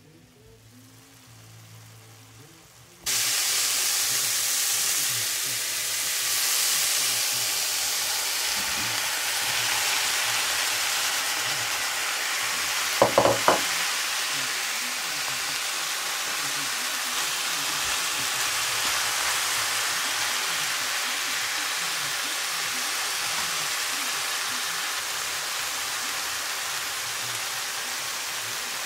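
Diced eggplant and zucchini going into a hot pan with browned ground meat and frying: the sizzling starts suddenly about three seconds in, loud and steady, and eases slowly. A little after the middle, three quick sharp knocks stand out above the sizzle.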